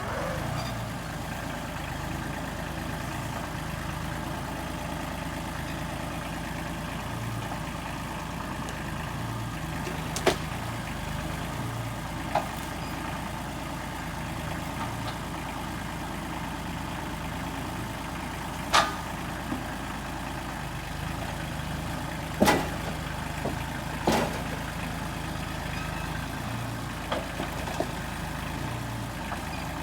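Small tractor's engine running steadily, with several sharp knocks scattered over it.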